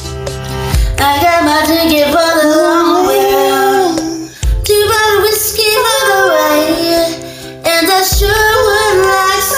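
Two female voices singing a pop duet in harmony over a backing track. A low thump comes about every three and a half seconds.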